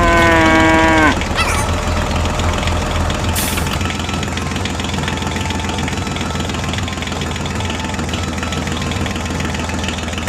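Tractor-type engine idling steadily with a low pulsing hum. A loud pitched tone, about a second long, sounds at the start and drops in pitch as it ends.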